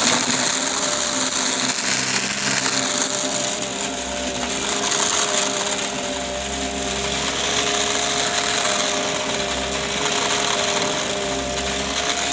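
Upright vacuum cleaner running with a steady motor whine over a rough, gritty rush as it picks up crunchy debris, the sound swelling and easing every couple of seconds.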